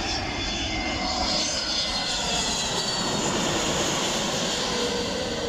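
Jet airliner on its landing approach passing low overhead: a steady engine rush with a high whine that falls in pitch.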